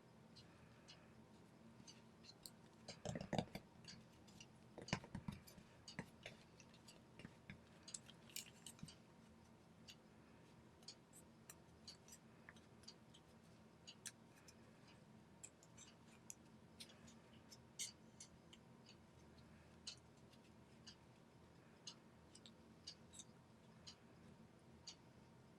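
Origami paper being folded and creased by hand: faint scattered crinkles and ticks, with louder rustles about three seconds in and again around five seconds.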